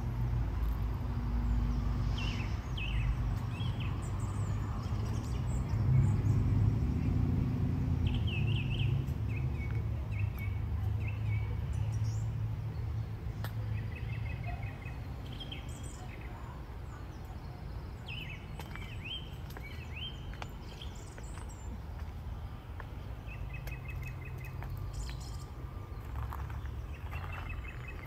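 Several birds chirping and singing in short calls and quick trills of repeated notes, over a steady low background rumble.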